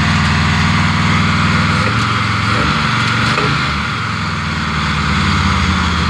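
Chevrolet P10 step van's V8 engine running with a steady low rumble; its note shifts a little about two seconds in.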